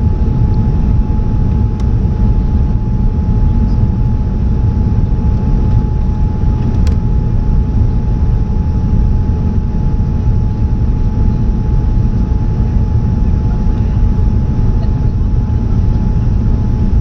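Jet engines of a Boeing 787-10 airliner at takeoff power: a steady, loud low rumble with a constant high hum running through it.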